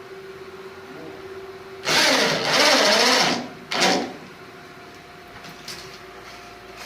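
An electric woodworking power tool runs in a loud burst of about a second and a half, then again briefly about half a second later.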